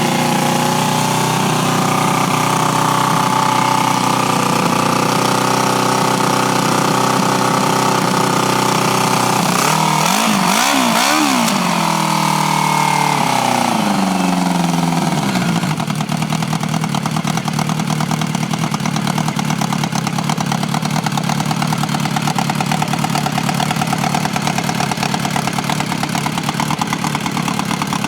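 Yamaha motorcycle engine running at a fast idle, blipped a few times about ten seconds in, then dropping back to a lower, steady idle.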